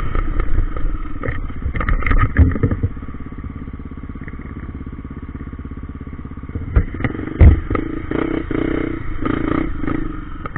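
Trail motorcycle engine running while riding over rough ground, with clattering knocks from the bike. About three seconds in it settles to a quieter, even running, then picks up again with loud knocks near the seven-second mark.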